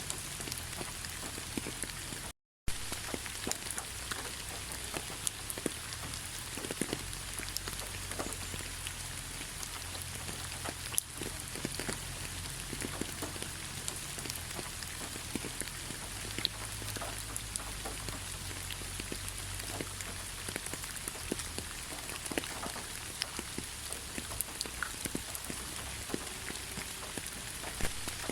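Steady rain falling, with many separate drops ticking close by over an even hiss and a low rumble. The sound drops out completely for a split second about two and a half seconds in.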